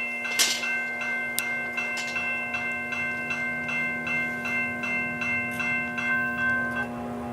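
Diesel locomotive's bell ringing steadily, about two and a half strokes a second, and stopping near the end, over the steady hum of the idling diesel engine. A sharp knock about half a second in.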